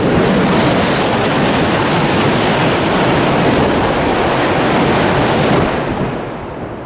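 Coupled E5 and E6 series Shinkansen train passing through a station at speed: a loud, steady rush of air and rail noise that starts abruptly and dies away about six seconds in, with wind buffeting the microphone.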